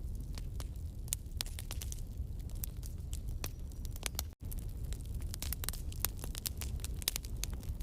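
Campfire burning, the wood crackling with many sharp snaps and pops over a low, steady rumble of flame. A split-second dropout to silence comes about halfway through.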